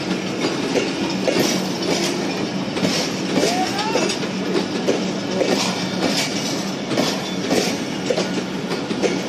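Train running on the track, its wheels clattering over the rails with frequent irregular clicks over a steady low hum.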